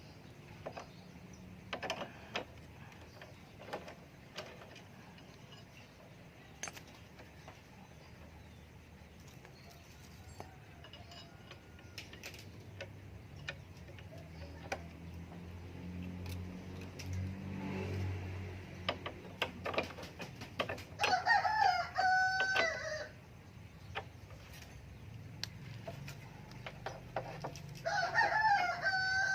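A rooster crowing twice, each crow about two seconds long, the first a little past the middle and the second near the end. Scattered light clicks and knocks are heard throughout, with a low rumble in the middle.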